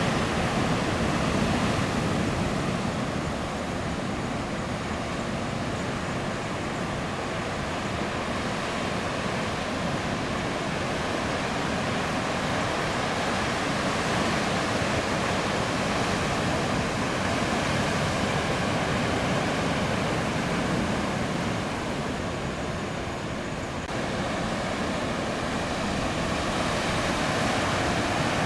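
Ocean surf from a typhoon swell, waves breaking and washing in a continuous wash of noise, with some wind on the microphone.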